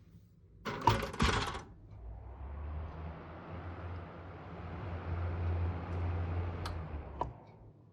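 A reversible ventilation fan (an extractor fan that alternates intake and exhaust). A loud clatter about a second in, like a switch or shutter, is followed by the motor starting up with a low hum and a steady noise of moving air that swells and eases. A couple of sharp clicks come near the end as it winds down.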